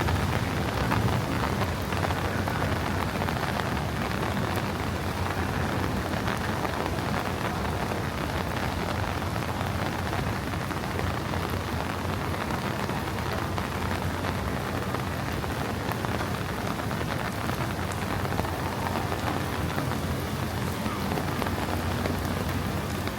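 Heavy rain falling steadily, an even hiss of drops hitting the ground and surfaces during a thunderstorm downpour.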